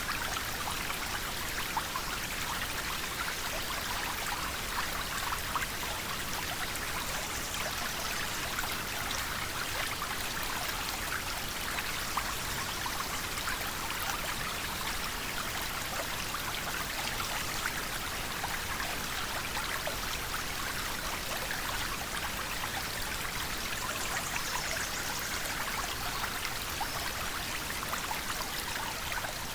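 River water flowing steadily: a constant rushing with many small splashes and trickles.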